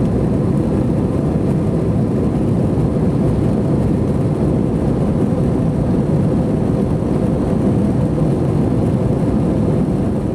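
Steady low rumble of an Airbus A321-213's CFM56 jet engines and airflow, heard inside the passenger cabin in flight.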